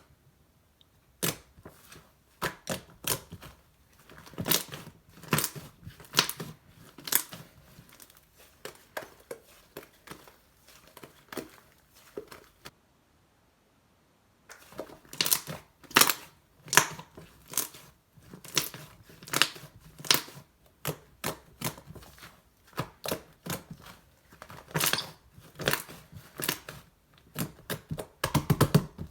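Slime being squished and played with by hand, making a steady run of sharp pops and crackles, with a pause of about two seconds near the middle.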